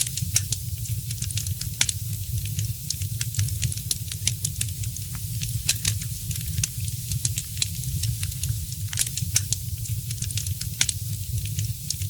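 Wood fire crackling, with frequent sharp, irregular pops and snaps over a steady hiss and a low rumble.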